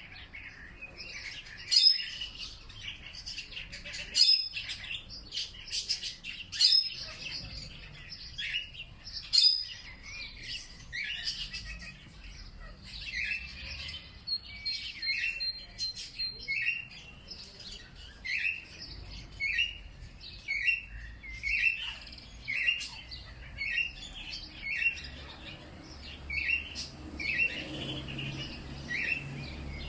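Songbirds chirping and calling: sharp, loud calls about every two and a half seconds in the first ten seconds, then a steady run of short repeated chirps, one or two a second.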